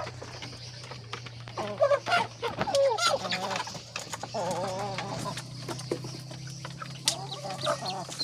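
Local Nepali chickens clucking and calling, with several short calls overlapping and a longer wavering call about halfway through. A steady low hum runs underneath.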